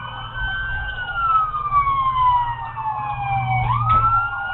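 Police car siren on a wail: the tone slides slowly down over about three seconds, then sweeps quickly back up near the end. A low vehicle drone runs beneath it.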